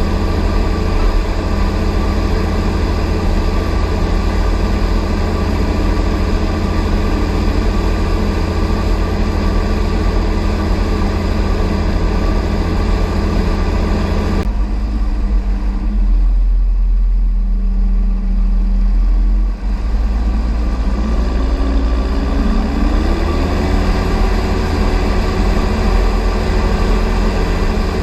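Fendt 716 Vario tractor's six-cylinder diesel engine running steadily. About halfway the sound turns suddenly deeper and duller, then the engine revs up, its pitch rising over a few seconds before holding at a higher speed.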